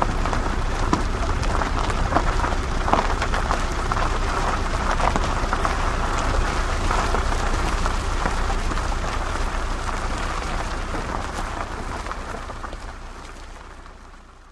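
Off-road car driving over rough ground: a steady low rumble under dense crackling noise, fading away over the last few seconds.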